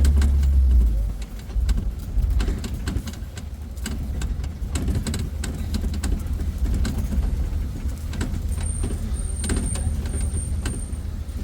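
Open-sided safari ride truck driving along a rough track: a low engine and road rumble with many small rattles and knocks, heaviest in the first second. From about eight seconds in there is a thin high squeak that comes and goes.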